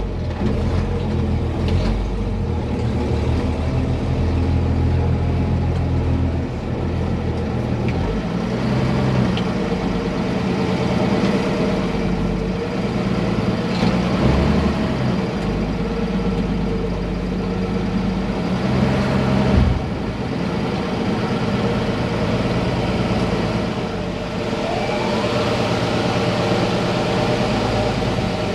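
A motor vehicle's engine running, its note shifting up and down several times.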